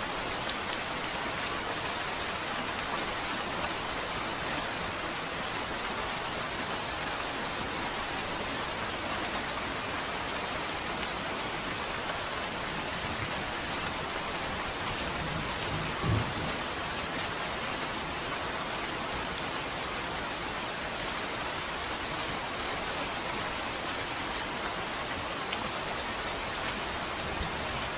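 Steady rain falling, an even hiss of drops throughout. A little past halfway there is one short, low thump.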